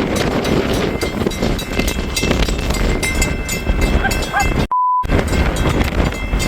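Freight train at a grade crossing, with the crossing's warning bell ringing rapidly over heavy wind buffeting the microphone. A short censor bleep cuts in just before the five-second mark.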